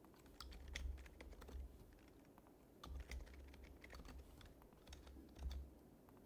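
Faint typing on an HHKB Professional HYBRID Type-S keyboard with silenced Topre switches. The keystrokes come in three short runs with brief pauses between them.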